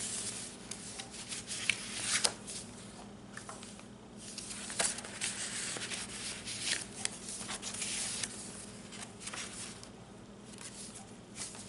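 Paper pages and envelopes of a handmade junk journal being turned and handled: irregular rustling and crinkling with small taps, over a faint steady hum.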